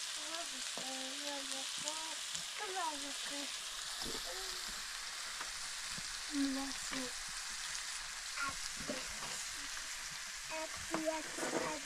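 Food sizzling steadily in a hot pan, with faint short pitched calls now and then over the hiss.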